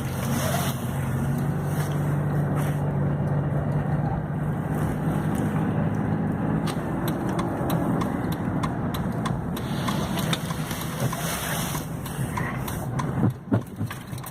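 Car engine running with a steady low hum that fades about halfway through, under constant rushing noise and scattered clicks.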